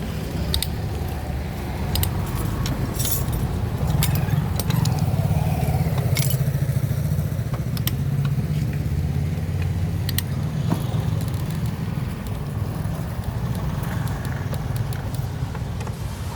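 Metal tools and engine parts clinking and clicking again and again during motorcycle engine dismantling, over a steady low rumble that swells for a few seconds about a third of the way in.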